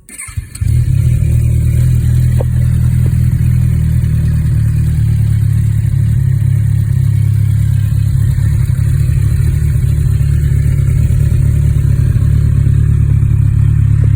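Kawasaki Z1000SX inline-four motorcycle engine starting about half a second in and settling into a steady idle.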